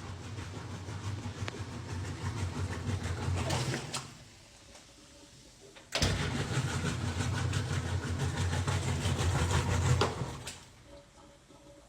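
Power drill running in two long bursts, driving in the screws of the washer's back panel; the second burst starts suddenly about six seconds in and cuts off about four seconds later.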